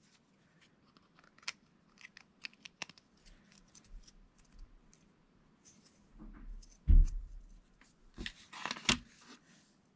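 Plastic Lego bricks being handled and pressed together: scattered light clicks and rattles, with a dull thump about seven seconds in and a quick run of louder clicks just after.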